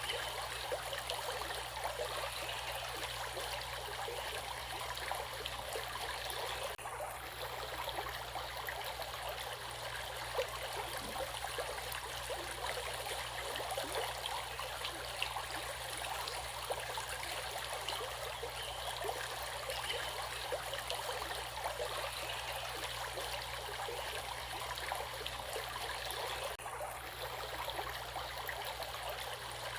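Water flowing in a stream, a steady rushing and trickling that does not let up.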